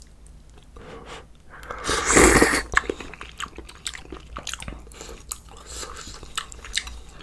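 A person chewing food close to the microphone, with many small wet clicks and smacks, and a loud breathy rush about two seconds in.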